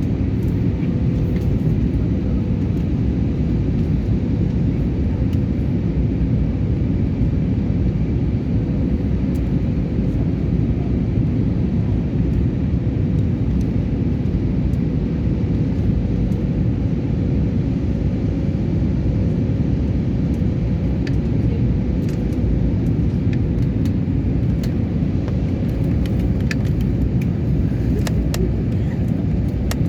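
Steady low rumble of an airliner's engines running at an even pitch, with a faint steady hum over it.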